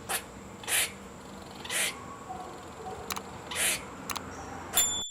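A squirrel giving a series of short, harsh calls at irregular intervals, a few of them slightly longer than the rest.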